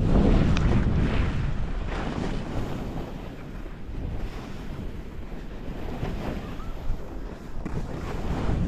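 Wind rushing over the microphone of a skier moving downhill, with swishes of skis turning on groomed snow that swell every second or two. The loudest swell comes in the first second.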